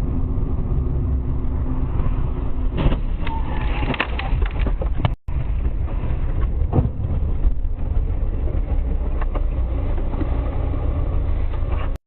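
Car driving, heard through a dashcam microphone: a steady low engine and road rumble. A cluster of sharp knocks and rattles comes about three to four and a half seconds in, the sound drops out briefly at about five seconds, and another knock follows near seven seconds.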